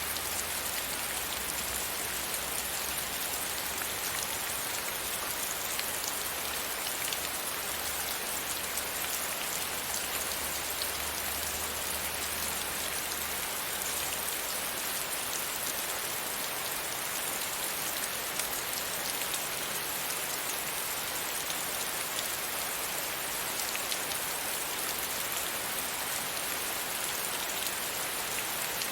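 Steady rain pattering on a window pane, a dense even hiss of many small drop ticks. A faint low hum sits under it for about the first half.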